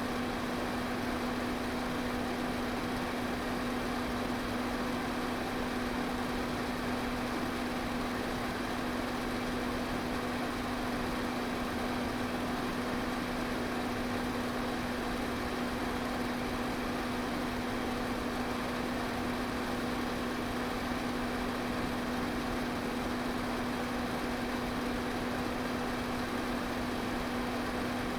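Pedestal fan running steadily: an even rush of air over a constant low motor hum, with no change in speed.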